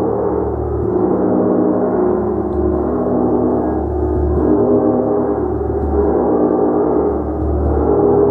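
Gong played continuously, a dense sustained wash of overlapping ringing tones that swells with new strokes about every two to three seconds.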